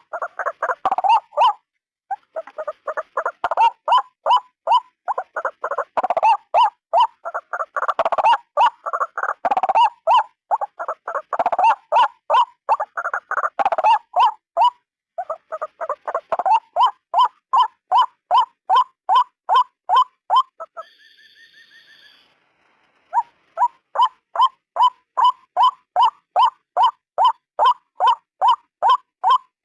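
White-breasted waterhen calling: a fast, unbroken run of repeated 'kru-ak' notes, about three a second. A little past two-thirds through the calls stop for about two seconds while a faint steady tone sounds, then they resume.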